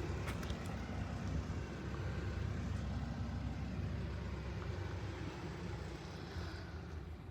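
Steady low rumble of a car on the move, easing slightly near the end.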